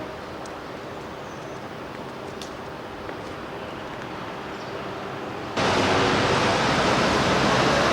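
Street traffic noise: a steady hum of vehicles, with a few faint clicks. About five and a half seconds in, a much louder rushing noise cuts in abruptly and holds steady.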